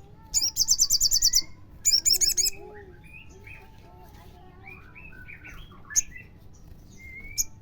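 Olive-backed sunbird song: a loud, rapid trill of about ten high notes starting about half a second in, a second quick burst around two seconds, then softer scattered chirps and lower sliding whistles.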